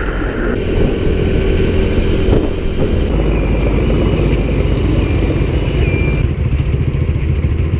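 Small motorbike engine running steadily with road and wind rumble. Through the middle comes a short pitched beep, four times in a row and evenly spaced, each beep stepping in pitch.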